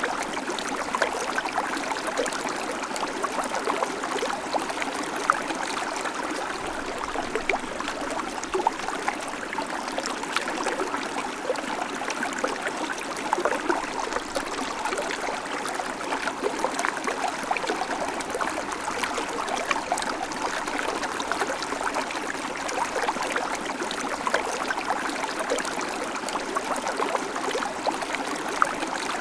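Shallow creek babbling steadily over stones, a constant rush of water full of small splashes and gurgles.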